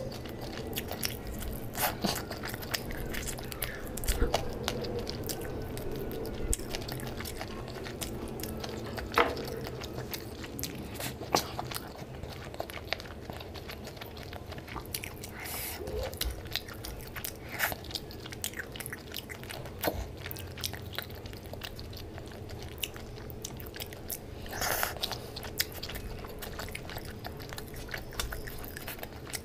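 Close-miked chewing and wet mouth clicks of a person eating fish curry with rice by hand, with occasional crunches.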